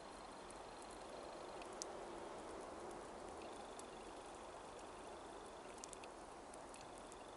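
Faint steady railway-station ambience, with a thin high-pitched whine that drops out about one and a half seconds in and returns about three and a half seconds in, and a few faint ticks.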